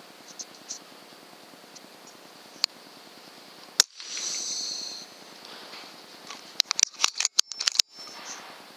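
A single sharp shot from a .177 PCP air rifle about four seconds in, followed by about a second of high hissing, then a quick run of sharp clicks near the end.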